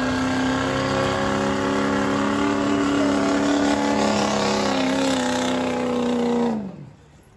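Pulling tractor's engine running loud at high, steady revs, its pitch rising slightly about two-thirds of the way through. Near the end its pitch and loudness fall away sharply.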